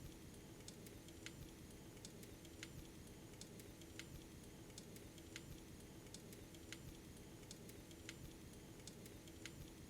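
Faint toy train running on its track: a steady low motor hum with a sharp click about every second and a half, and lighter ticks between.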